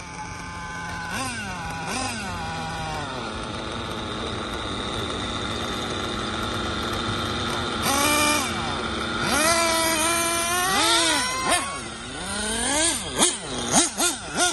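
Small nitro engines of 1/8-scale RC cars running and revving, their high whine rising and falling again and again, with several engines overlapping and sharper revs in the second half.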